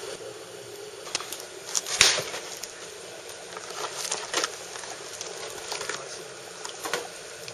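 Wood campfire crackling: a steady hiss of burning wood with irregular sharp pops, the loudest about two seconds in.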